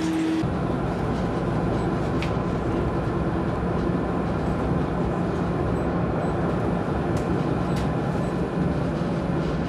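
Steady rumbling noise of a moving vehicle, like a train or car in motion, cutting in abruptly and holding an even level.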